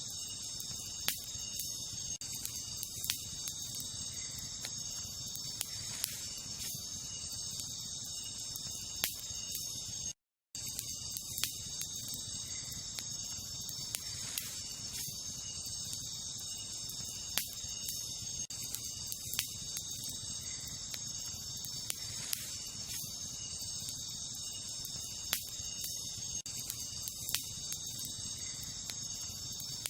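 Wood campfire crackling with irregular sharp pops, over a steady high chirring of night insects. The sound drops out completely for a moment about a third of the way in.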